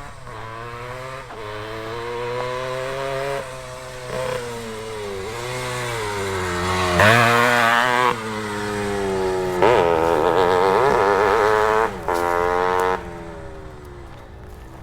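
Two-stroke single of a 1973 Penton Berkshire 100 motocross bike, breathing through an expansion-chamber pipe. The engine revs up and down under changing throttle. It surges loud about seven seconds in and again from about ten to thirteen seconds in, cutting off sharply between the surges.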